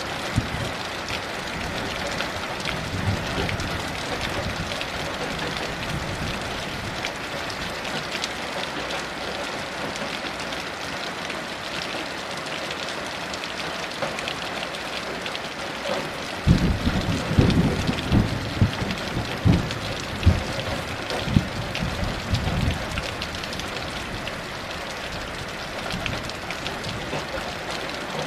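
Heavy rain falling steadily. About sixteen seconds in, a roll of thunder rumbles low with several sharp cracks for about six seconds, then dies away under the rain.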